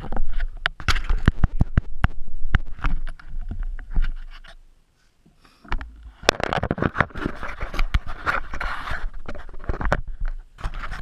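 Hendey metal lathe running while a cutting tool scrapes along the work, with a steady low hum and many irregular clicks and scrapes. The sound drops away almost to silence for about a second near the middle, then starts again.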